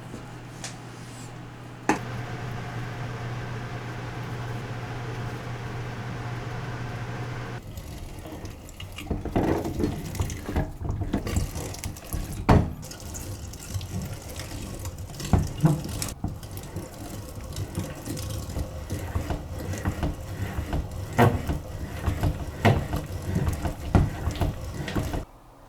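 Kitchen tap running steadily into a sink for several seconds, then irregular clatter and knocks of kitchen work that go on to near the end.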